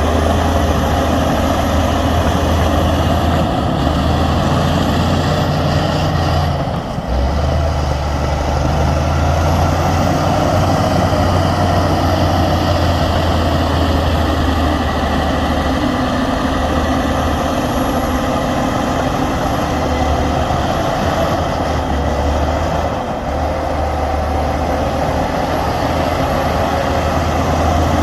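Heavy diesel engine of earthmoving equipment running steadily with a strong low drone, dipping briefly twice, about seven seconds in and again near the 23-second mark.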